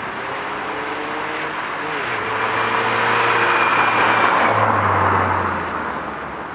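Alfa Romeo 156 2.0 Twin Spark four-cylinder with an Ulter Sport exhaust driving past: the exhaust note builds, is loudest about three to five seconds in, drops in pitch as the car goes by, and fades away.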